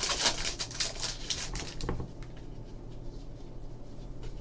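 Trading card pack wrapper being torn open and the cards handled: a crinkling rustle for about the first two seconds, then softer rustles of cards sliding.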